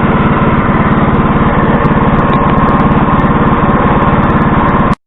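Small single-cylinder tractor engine running steadily at a constant speed during its break-in run, with an even, fast firing beat. It cuts off abruptly near the end.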